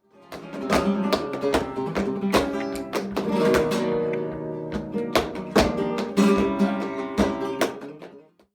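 Acoustic guitar music: quick plucked notes and strums, fading out near the end.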